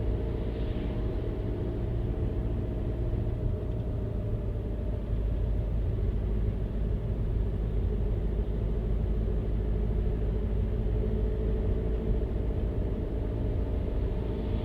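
Steady rumble of a car driving at an even pace: engine hum and tyre noise with a few constant tones.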